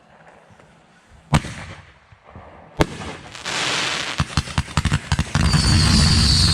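Fireworks going off: two loud bangs about a second and a half apart, then a quick run of crackling pops. Near the end comes a dense, steady crackle and hiss with a high whistle slowly falling in pitch.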